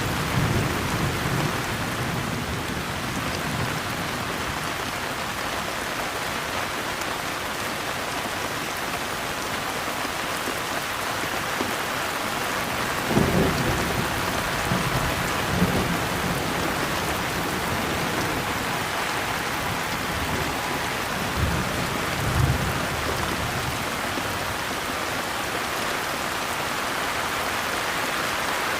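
Steady rain falling, an even hiss of water, with low thunder rumbling at intervals: a rumble fading away at the start, another about halfway through, and two short ones about three-quarters of the way in.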